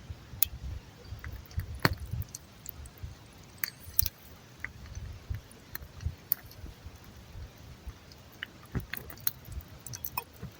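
Scattered sharp clicks and small rattling handling noises, several of them a second or two apart, over a low rumble, as fire-lighting gear is handled to light a dry-fuel tablet.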